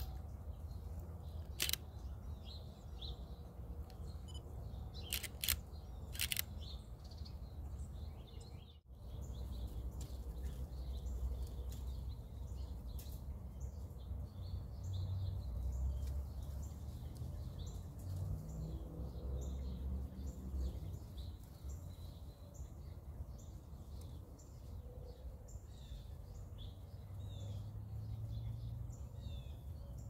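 Small birds chirping in short, high notes over a steady low rumble, with a few sharp clicks in the first few seconds.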